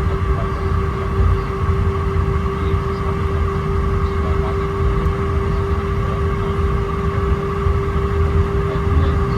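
Cabin noise of an Airbus A319 taxiing after landing: a steady engine and air-system hum with a constant mid-pitched tone over a low, uneven rumble from the ground roll.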